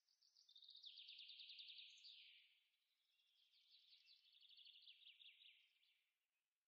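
Faint bird song: two phrases of rapid trilled notes. The first ends in a falling note about two seconds in, and the second runs from about three to six seconds in.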